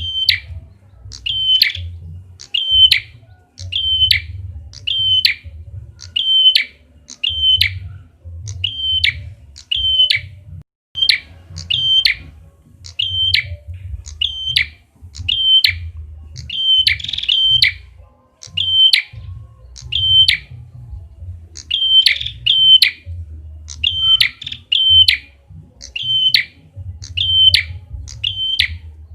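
Prenjak kepala merah song, used as a lure call: one short, sharp, high chirp repeated a bit more than once a second, now and then doubled, over a faint low hum.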